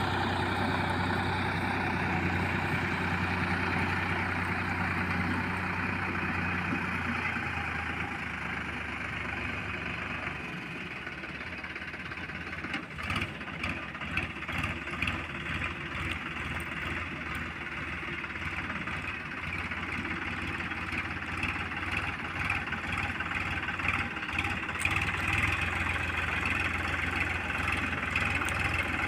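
Heavy diesel engine running steadily. About a third of the way in the sound turns uneven and choppy, with light rattles, and it gets louder again near the end.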